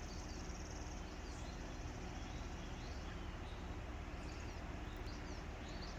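Faint ambience of woodland birds: a few short, distant chirps now and then over a steady low background noise.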